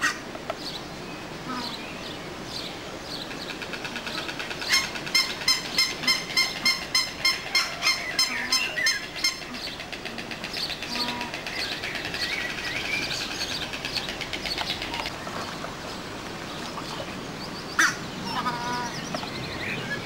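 A large bird honking in a rapid, even series, about three honks a second for some four seconds. Small birds chirp faintly around it.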